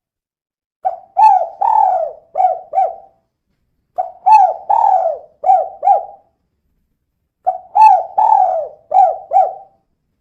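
Female spotted dove cooing: three phrases of about five notes each, one every three and a half seconds or so.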